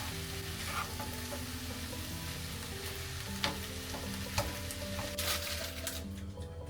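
Food sizzling in a hot frying pan, a steady hiss that cuts in suddenly and dies down near the end, with a few light clicks. Soft background music plays underneath.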